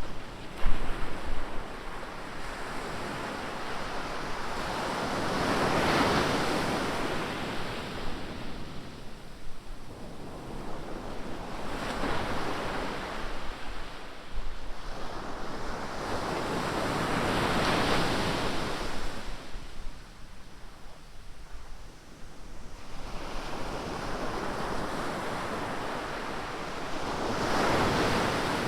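Ocean surf: waves breaking and washing up the beach in four big swells roughly six seconds apart, each rising to a rush and then ebbing. Wind buffets the microphone with low rumbles, most in the first second.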